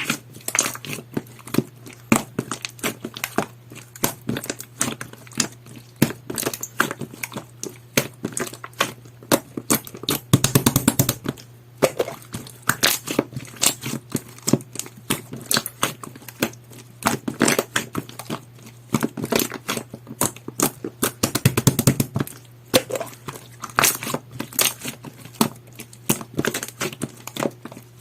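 Jelly-textured slime being squeezed and stretched by hand, giving a steady stream of irregular sticky clicks and small air-bubble pops, with denser crackling stretches about ten seconds in and again about twenty-one seconds in.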